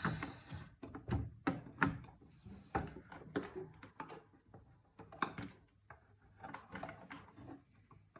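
Irregular clicks and knocks of computer parts and SATA cables being handled and fitted in a wooden box case, with several louder knocks in the first three seconds and lighter clicks after.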